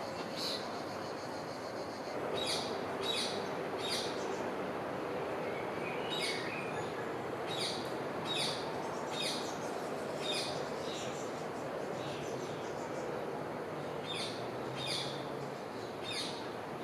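Small birds chirping: short, high chirps repeated several times in a row in three runs, over steady background noise.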